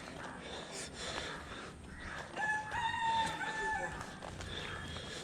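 A rooster crowing once, about halfway through: one long, held call with a slight drop at the end.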